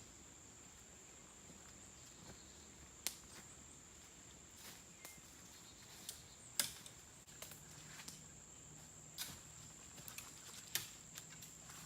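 Quiet outdoor ambience: a faint steady high-pitched whine, with a few sharp clicks or snaps at irregular intervals.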